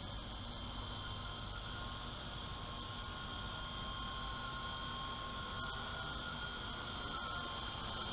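WLToys V915 fixed-pitch RC helicopter flying, its electric motors and rotors giving a steady high whine; one tone strengthens and edges slightly higher from about three seconds in.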